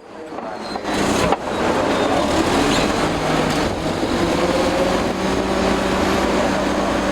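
Old Caterpillar D8 bulldozer's diesel engine running steadily; the sound fades in from a brief dropout, with one sharp knock about a second in.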